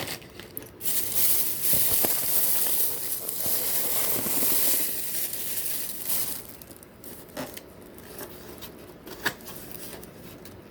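Takeout food packaging being handled and unwrapped, with dense crinkling and rustling for the first several seconds, then a few light clicks and ticks.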